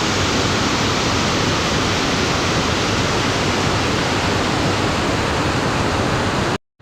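Steady rushing of running water, like a rain-swollen stream or small waterfall, that cuts off abruptly near the end.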